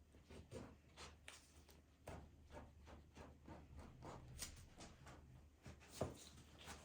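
Faint rustling and light tapping of things being handled, with one sharper knock about six seconds in.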